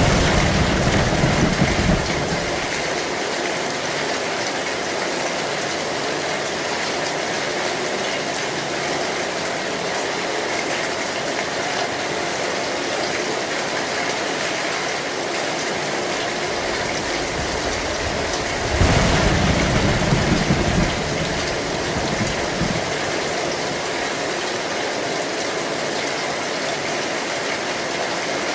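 Heavy rain falling steadily on an old metal roof, with two short low thunder rumbles of about two seconds each: one at the start and one about two-thirds of the way through.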